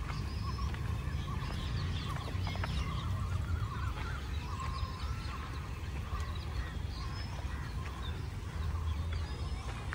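Birds chirping and calling in many short, quick notes over a steady low rumble.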